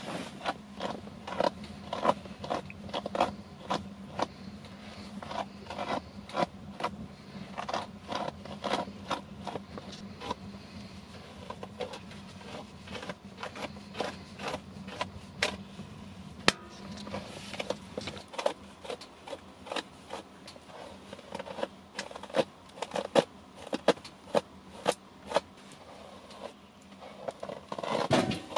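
Irregular clicks, taps and scrapes, many in quick succession, over a faint steady low hum that stops about two-thirds of the way through.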